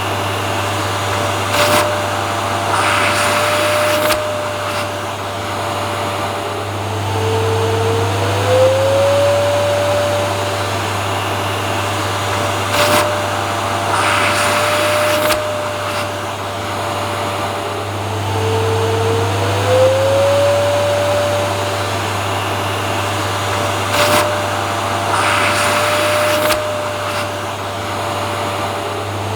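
Vacuum cleaner running steadily with a constant hum and a whine that drops in pitch and glides back up about every eleven seconds. Short bursts of hiss recur at the same spacing, so the whole pattern repeats.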